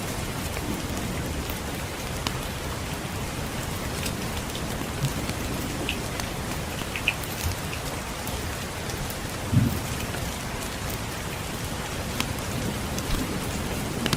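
Steady rainfall with scattered sharp crackles and pops, typical of a wood fire crackling in a fireplace, and one soft low thump about two-thirds of the way through.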